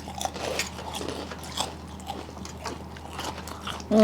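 Close-up chewing and crunching of fried sago papad (sabu papad), a string of short crisp crackles.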